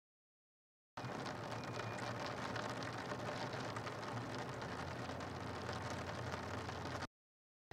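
Steady rain falling on a rooftop: an even hiss with faint scattered drop ticks. The sound cuts out completely for about the first second and again near the end.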